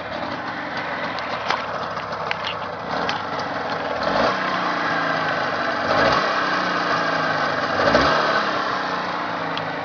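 Jawa 638 two-stroke twin-cylinder motorcycle engine running on a test start, its revs rising and falling three or four times from a fast idle.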